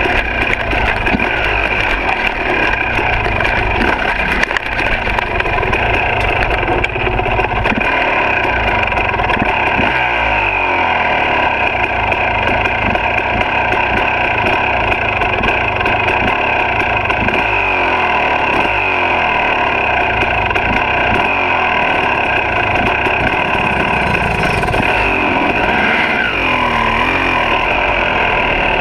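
Single-cylinder two-stroke engine of a 2006 KTM 300 XC dirt bike running under riding load, its pitch rising and falling again and again as the throttle opens and closes.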